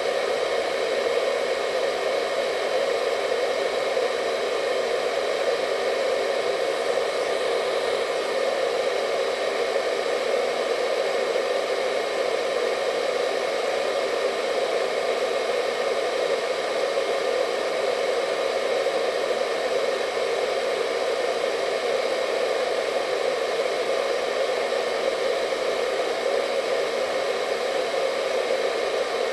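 Hair dryer running steadily: an even, unchanging rush of blown air with a faint motor whine on top.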